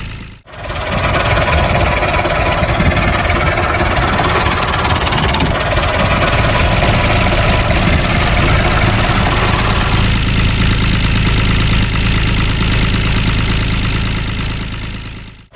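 Small engine of a handmade miniature tractor running steadily. It drops out briefly just after the start and again at the end, and its sound shifts slightly twice along the way.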